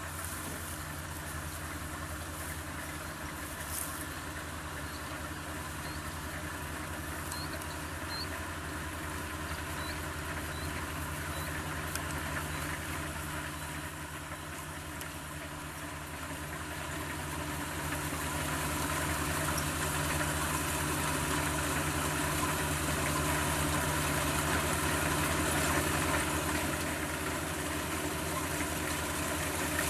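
Kubota DC-35 combine harvester's diesel engine running steadily along with its machinery, getting somewhat louder about halfway through.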